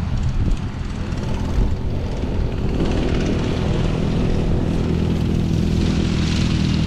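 Off-road vehicle engine running at a steady pitch.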